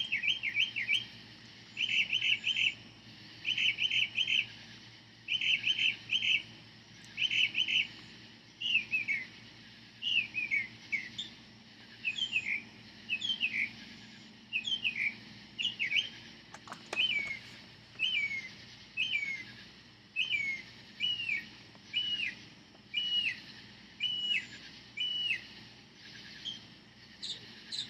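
A bird singing at night, repeating a loud phrase about once a second and changing to a new phrase type every several seconds, over a faint steady buzz of crickets.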